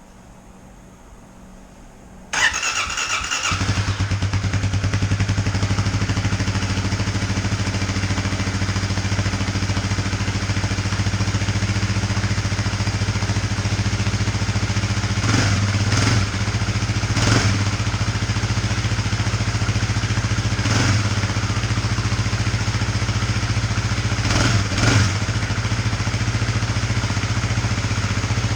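2018 Kawasaki KLX250 single-cylinder dual-sport engine on its stock exhaust, started on the electric starter about two seconds in, catching at once and then idling steadily. A few brief throttle blips come in the second half.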